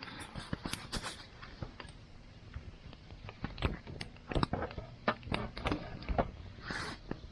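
Wood campfire crackling, with irregular sharp pops and snaps over a low steady rumble of burning, and a short burst of hiss near the end.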